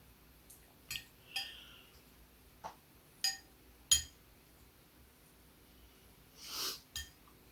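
A spoon clinking against a dish several times while stirring, each a short, sharp tap with a brief ring, the loudest about four seconds in. A soft rushing sound comes shortly before the end.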